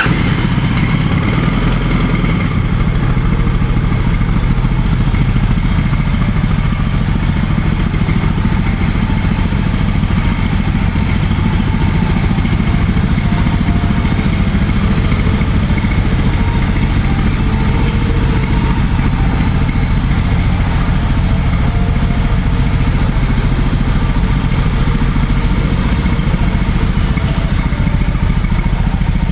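2007 Triumph Bonneville T100's air-cooled 865 cc parallel-twin engine idling steadily just after being started.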